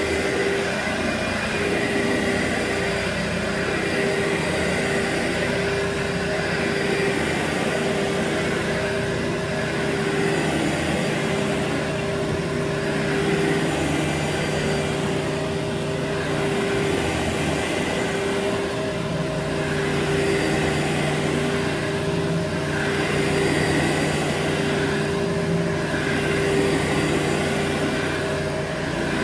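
Carpet-cleaning machine running steadily on carpet, a constant motor whine over a broad rush of air, swelling and easing gently every few seconds.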